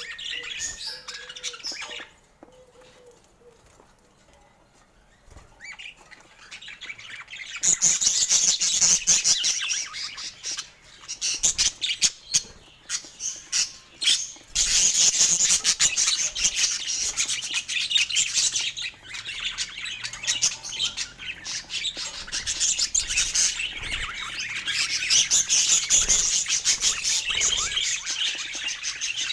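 A group of budgerigars chattering. It goes quiet a couple of seconds in, then dense, fast chatter starts at about eight seconds and carries on, with a short pause around the middle.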